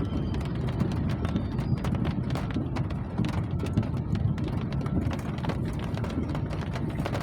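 Rain, with many irregular drops ticking sharply on a hard surface over a steady low rumble.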